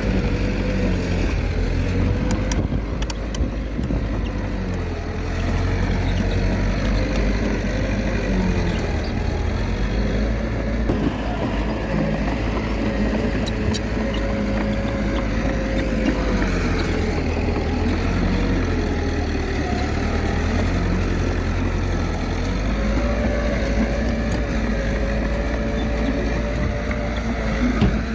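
Komatsu D21A small bulldozer's diesel engine running under working load, its pitch sagging and recovering every few seconds as the blade pushes rock and soil. A few short knocks ring out over it.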